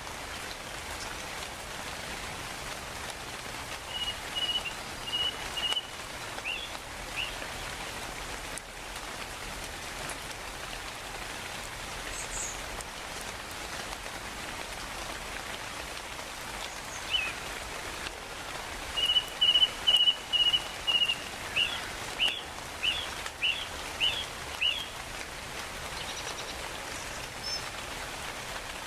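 Steady rainfall with a bird calling over it: a short run of repeated high notes about four seconds in, and a longer, louder run of about a dozen notes starting about two-thirds of the way through.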